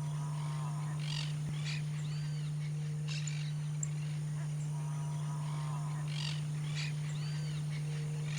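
Bird song, the same phrase repeating about every two and a half seconds: a warbling run of notes, then high arched notes and quick chips. Under it runs a steady low hum.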